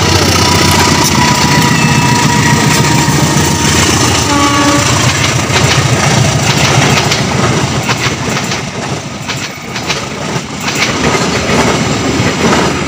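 A CC201 diesel-electric locomotive passes close by with its engine running, and gives a short horn blast about four and a half seconds in. After that, the passenger carriages roll past, their wheels clicking over the rail joints.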